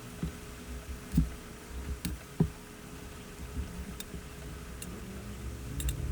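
Parts of a dynamic microphone being handled during disassembly: scattered small clicks and knocks, two louder ones in the first half, over a low rumble.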